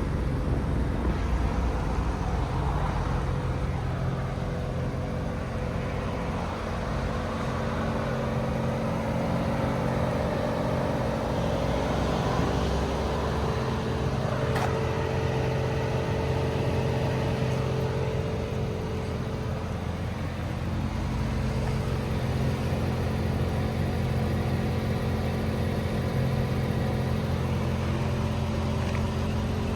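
Mercedes-AMG E63 (W212) 6.2-litre naturally aspirated V8 idling, a steady deep exhaust note with no revving.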